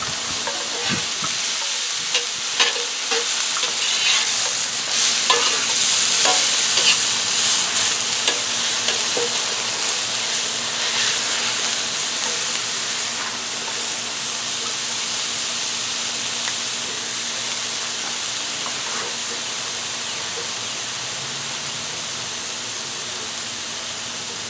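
Diced onions sizzling on a hot homemade flat-top griddle, with a metal spatula scraping and tapping on the griddle as they are stirred, mostly in the first half. After that the sizzle goes on steadily.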